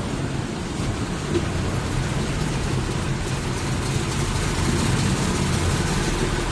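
Truck engine running steadily with a low hum, and no clear revving.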